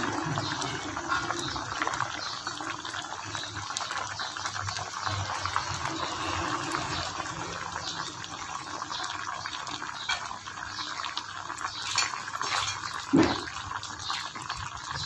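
Sausages sizzling and bubbling in hot oil in a metal pan as a ladle stirs them: a steady crackle. Near the end there is a brief animal call.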